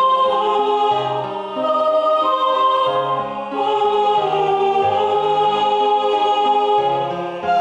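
Choral part-learning track: several vocal lines played in steady, organ-like tones, the second soprano part louder than the others, moving note to note.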